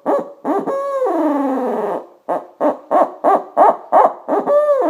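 Owl hooter call blown to give an owl's laugh: runs of quick hoots rolled in the throat, each ending in a long hoot that falls in pitch, twice.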